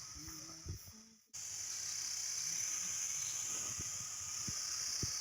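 Steady, high-pitched chorus of insects such as crickets or cicadas. It drops out briefly about a second in and comes back at the same level, with a few faint knocks underneath.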